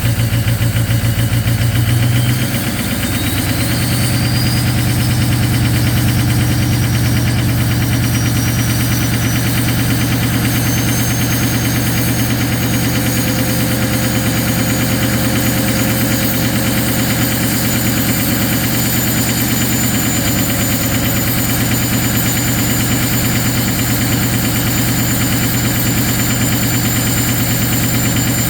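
Ford 6.0 Powerstroke V8 turbo-diesel idling cold with steady diesel clatter, at high idle after a below-zero cold start. The engine note shifts about two seconds in, and a high whine climbs in pitch over the next few seconds, then keeps rising slowly.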